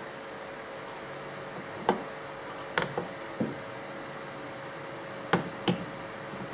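Parts of a disassembled electric drill being handled: about six sharp knocks and clicks in two clusters over a steady low hum.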